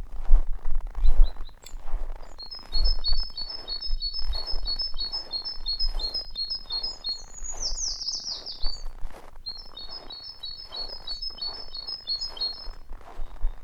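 A small songbird singing: a fast series of repeated high paired notes, a brief sweeping trill midway, then another series of the same notes. Underneath are low thumps and crunching rustles, like footsteps in snow.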